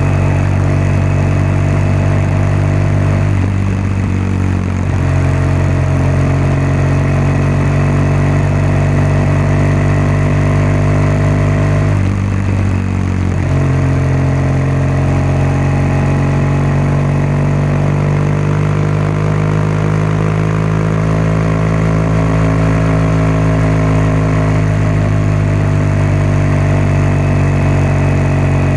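BMW R1200GS boxer-twin motorcycle exhaust note while riding at steady cruising revs; the engine note breaks briefly twice and later drifts slowly in pitch.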